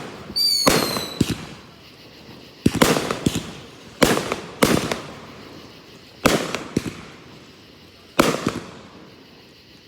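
Aerial fireworks bursting, about nine sharp booms spaced irregularly, some in quick pairs, each trailing off over a second or so. A short falling whistle from a whistling firework comes just before the first boom.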